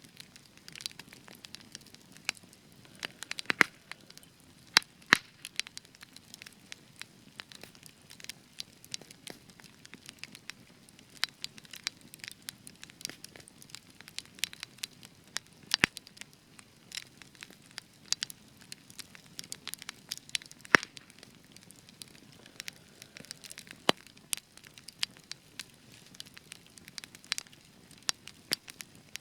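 Spruce wood fire crackling, with irregular sharp pops and snaps over a soft hiss of flames; a few loud pops stand out.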